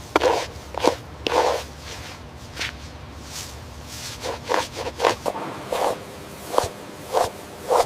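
A series of short rubbing or scraping strokes, about two a second, thinning out for a couple of seconds before picking up again.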